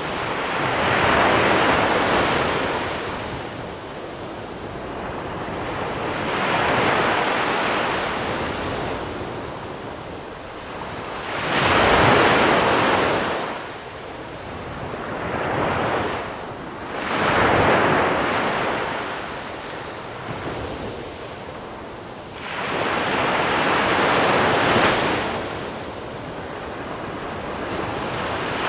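Small sea waves breaking and washing over a pebble shore, the hiss of water swelling and falling away in about six surges, each a few seconds long.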